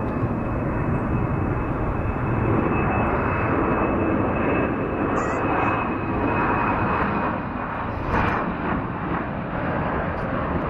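Jet noise from an Embraer E190's twin GE CF34 turbofans at takeoff power: a steady heavy rush with a thin high fan whine that drifts slightly lower in pitch.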